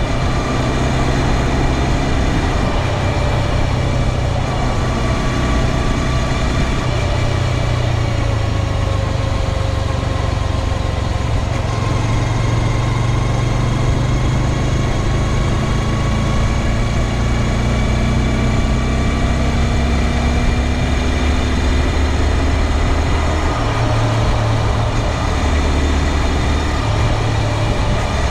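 2022 Honda Grom's single-cylinder engine running steadily with a low rumble, its pitch drifting slowly up and down with small throttle changes. The owner says the same noise is still there after the dealership replaced the drive chain with an O-ring chain, only slightly quieter.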